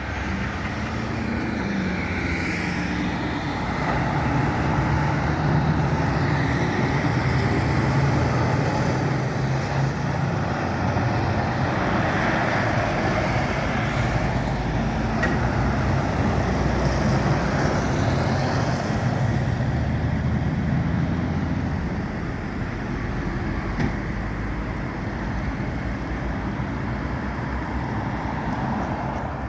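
City street traffic with trucks driving past: engine drone and tyre noise, louder for the middle stretch and easing off after about twenty seconds.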